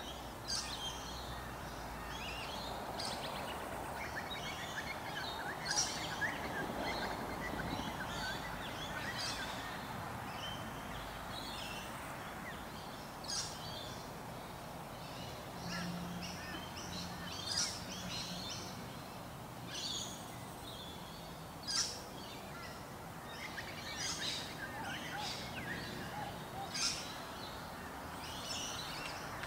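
Birds chirping outdoors: many short, high calls scattered throughout, over a steady background hiss.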